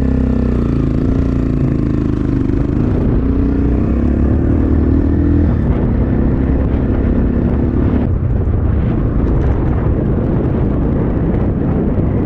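Templar X 250 dirt bike engine running under way, its pitch holding fairly steady with small shifts, fading into the background after about eight seconds. Heavy wind buffets the microphone throughout.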